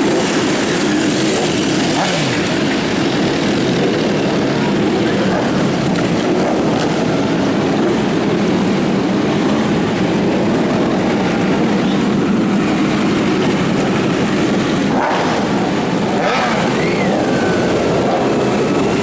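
Motorcycle engines running with a loud, steady drone that holds its level throughout. A brief higher tone rises and falls near the end.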